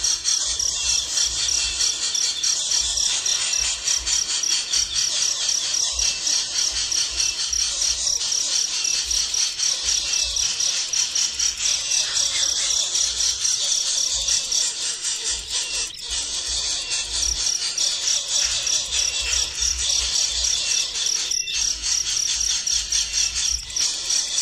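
Steady chorus of insects chirping in a fast, pulsing high-pitched trill, with intermittent low rumbles underneath.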